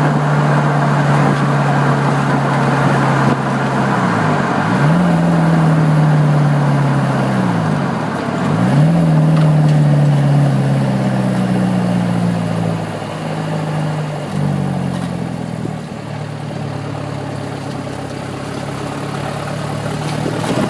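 Holden Rodeo 3-litre four-cylinder turbo diesel running through a 3-inch turbo-back exhaust with one muffler and no catalytic converter. The engine note rises and falls, with quick dips in pitch about four and eight seconds in, a slow easing down, another dip near the middle, then a lower, steadier run.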